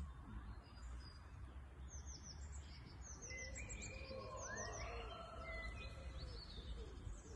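Several small songbirds singing and chirping: short runs of quick, falling, high-pitched notes, with some longer, lower notes between them, over a steady low rumble.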